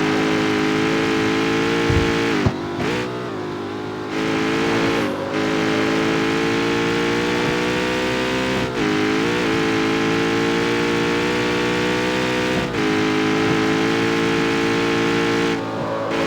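Jaguar F-Type's supercharged V8 engine and exhaust running under steady throttle, its pitch holding level and creeping up slowly. The pitch dips briefly four times, at about two, five, nine and thirteen seconds in.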